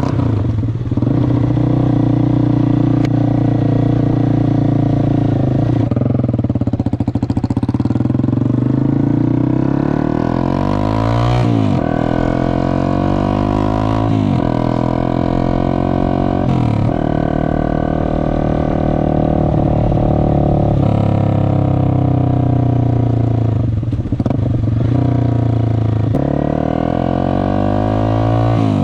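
Honda CBR250R single-cylinder engine running loud through a cheap shorty exhaust that is essentially a straight pipe, being ridden. Its pitch climbs and drops back again and again.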